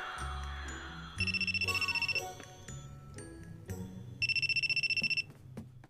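A telephone ringing twice over background music, each ring a fast-warbling electronic trill about a second long.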